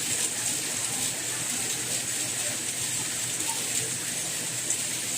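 Steady rain: an even hiss, brightest in the high range, with faint scattered drop ticks.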